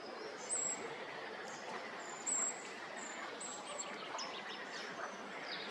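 Small wild birds giving short, very high-pitched calls, repeated every second or so, over a steady background hiss; the two loudest calls come about half a second in and just after two seconds.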